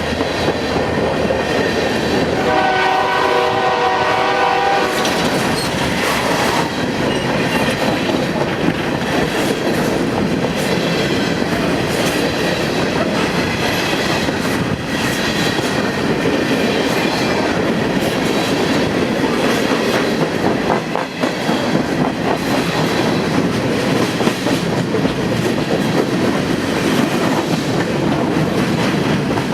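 A passing train sounds its multi-chime air horn once for about two and a half seconds, a few seconds in. Its wheels then rumble and clack steadily over the rail joints as the cars roll by.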